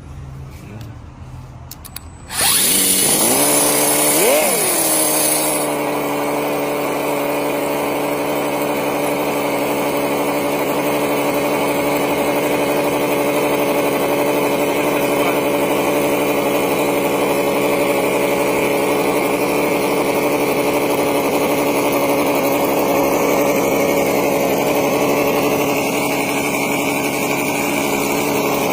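Small homemade RC motor starting suddenly about two seconds in. It revs up briefly and drops back, then runs at a steady, even pitch.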